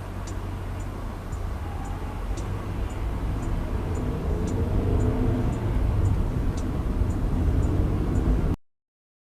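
Car engine and road rumble, getting louder about halfway through as the car speeds up, with a faint sharp tick about twice a second; it cuts off suddenly near the end.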